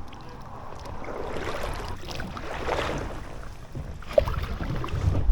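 Kayak paddle strokes splashing in the water, swelling and falling in the middle. Wind buffets the microphone with low rumbles near the end.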